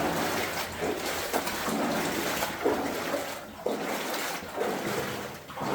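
Boots wading through shallow water along a flooded mine tunnel, a slosh with each step about once a second, echoing off the rock.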